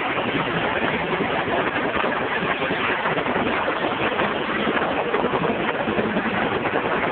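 Helicopter running close by: a steady, loud rush of rotor and engine noise with a fast flutter.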